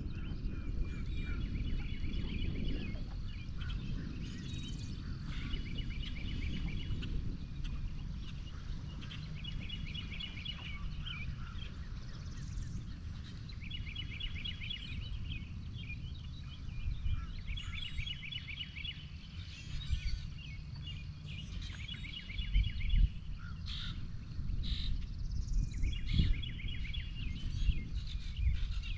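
A songbird singing a short trill of rapid high notes about every four seconds, over a steady low rumble, with a few dull knocks in the later seconds.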